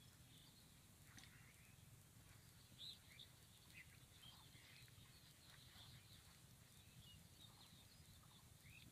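Faint birds chirping, many short scattered calls overlapping, over a steady low background rumble.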